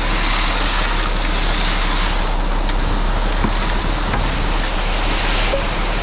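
Steady rushing noise of wind buffeting the microphone, over a concrete mixer truck running during the pour.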